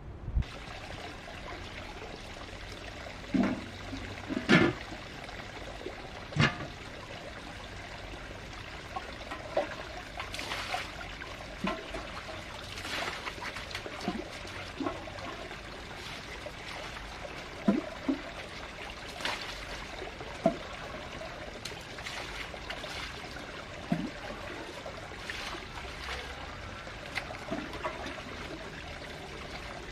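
Water running or trickling steadily, with irregular knocks and splashes throughout.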